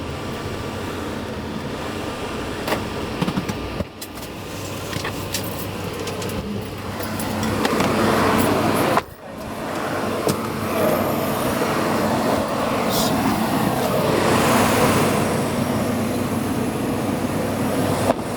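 Car running with steady engine and road noise, briefly dropping out twice, about four and nine seconds in.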